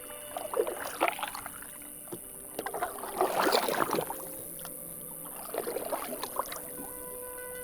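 Canoe paddles dipping and pulling through the water, giving irregular splashing strokes with the longest, loudest one about three to four seconds in.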